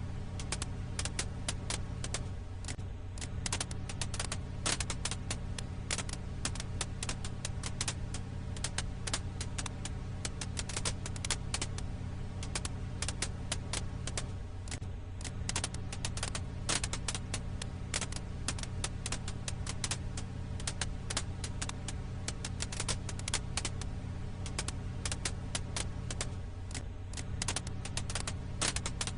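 Firewood crackling in a campfire: a dense, steady stream of sharp pops and snaps over a low steady rumble. The pattern repeats about every twelve seconds, as a loop does.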